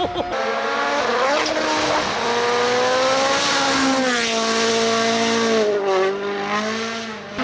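Rally car engine running at high revs, its pitch climbing and dropping several times with throttle and gear changes.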